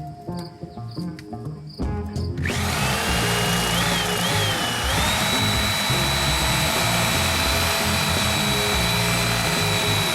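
A power tool's motor starts about two seconds in and runs at a steady high whine, dipping briefly in pitch once or twice as it bites, over background music.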